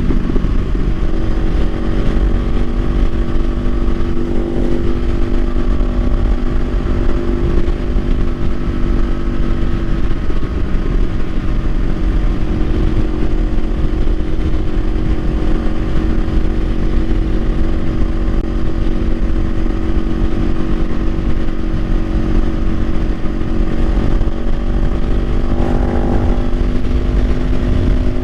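2024 Kawasaki Ninja 500's parallel-twin engine running at a steady cruise under way, with wind rumbling on the helmet-mounted microphone.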